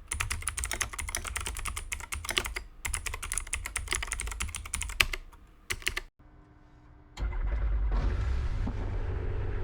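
Rapid keyboard-like typing clicks for about six seconds, with a brief break near the three-second mark, then a short quiet. About seven seconds in, a steady engine drone with a low hum starts: light-aircraft engine noise heard in the cockpit.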